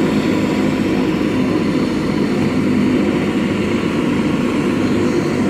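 Helicopter's engine and rotor running, a loud steady noise with no change in pitch.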